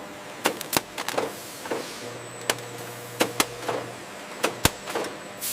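Factory machinery clicking and clacking at irregular intervals over a faint steady hiss, with a low hum for about two seconds in the middle.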